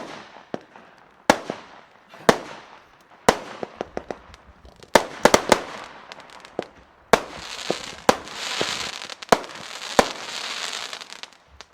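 Consumer firework battery firing: sharp bangs at about one a second, a quick cluster of them about five seconds in, then a dense crackling from about seven seconds in that stops suddenly near the end.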